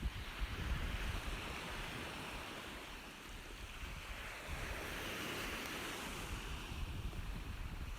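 Ocean surf: waves washing in and drawing back in slow swells, loudest about a second in and again about five seconds in, over a low rumble.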